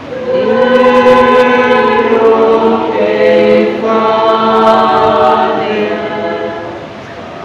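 Church choir singing in long held notes. The singing swells in about half a second in and fades toward the end.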